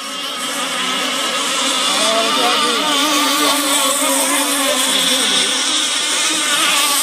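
Racing boat engine running, its pitch wavering up and down.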